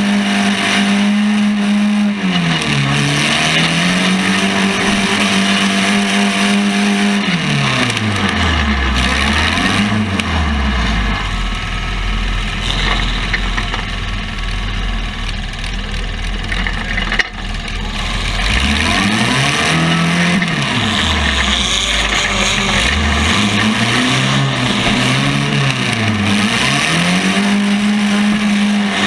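A compact pulling tractor's engine held at high revs, then bogging and revving again, its pitch swinging down and up several times. Around ten seconds in it drops to low revs for several seconds, then rises and falls again toward the end.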